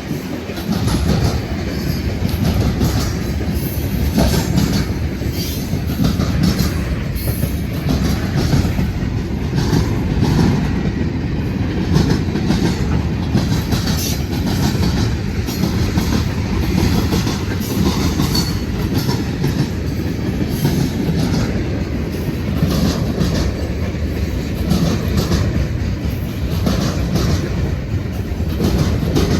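Freight train rolling past: a steady rumble of the cars with the wheels clicking over the rail joints.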